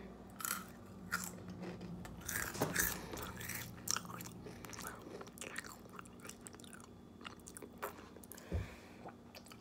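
A boy chewing a McDonald's french fry: faint, irregular chewing sounds.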